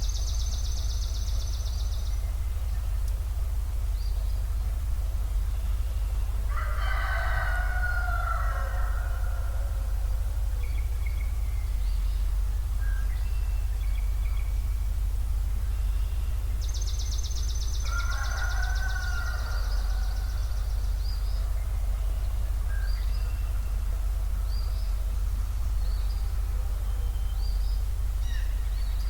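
A rooster crowing twice, about ten seconds apart, each crow lasting a couple of seconds. Between and around the crows a songbird gives a fast high trill twice, with scattered small chirps, over a steady low rumble.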